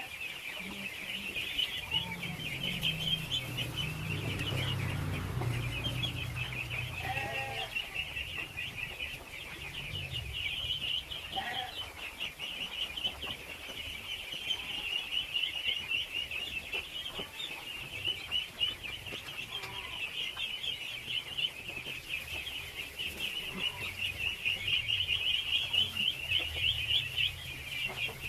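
A large flock of ducklings peeping together in a dense, unbroken chorus of rapid high chirps. A low rumble runs under it for the first several seconds.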